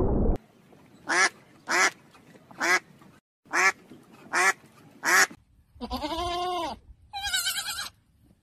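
A low rushing water noise cuts off about half a second in. Then come six short, loud quacking honks from geese, about one every 0.8 s, followed by two longer wavering calls typical of a lamb bleating.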